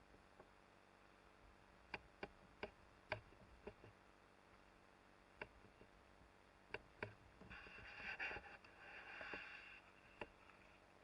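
Faint, muffled knocks and clicks from gear being handled on the kayak, heard through the sealed waterproof camera housing, about eight scattered taps with a brief rustling hiss near the end; otherwise near silence.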